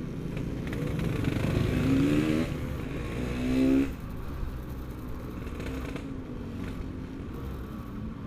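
Yamaha RX-King's two-stroke single-cylinder engine accelerating: its pitch rises for about a second, drops at a gear change, rises again and loudest, then backs off about four seconds in to a steady lower running.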